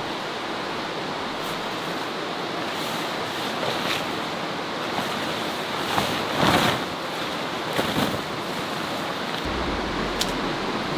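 Steady rushing outdoor water noise, with a few scattered clicks and a brief louder rustle about six and a half seconds in.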